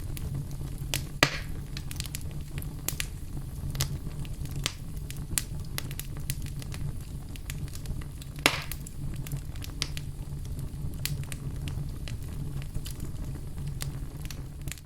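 Fire burning in a fireplace, crackling with many small sharp pops over a steady low rumble. Two louder pops stand out, about a second in and about eight seconds in.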